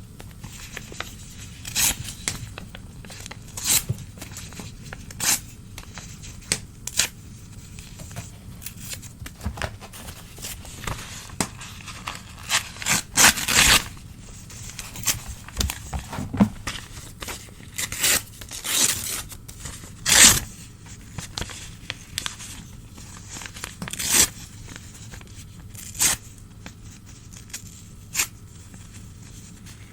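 Old newspaper being torn by hand, close to the microphone: a series of separate rips, short and longer, with crinkling between them.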